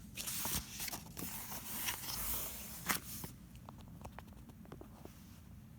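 A paper page of a picture book being turned: a rustling swish for about three seconds, then a few light clicks and taps.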